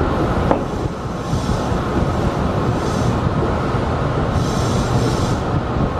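Tobu Railway commuter electric train running along the track, heard from the driver's cab: a steady rumble of wheels on rail, with a few brief high-pitched patches from the wheels.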